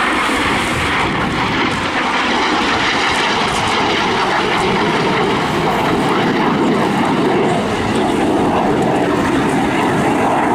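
Jet noise from a BAC Strikemaster flying a display, its single Rolls-Royce Viper turbojet running in a steady roar with a faint steady tone inside it.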